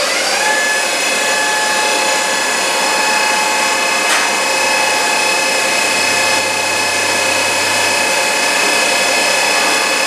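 A power tool spins up and then runs steadily with a high whine.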